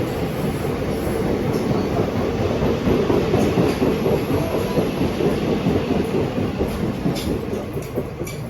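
Passenger train passing close by, a loud rumble and rattle of wheels on track that gradually fades over the last couple of seconds.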